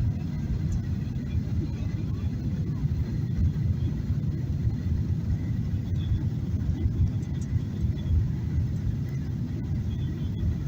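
Boeing 737-800 cabin noise during descent: a steady low rumble of its CFM56-7B jet engines and the airflow, heard from inside the cabin.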